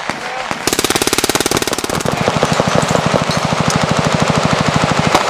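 Fully automatic gunfire: one long unbroken burst of rapid, evenly spaced shots, starting just under a second in and lasting about four and a half seconds.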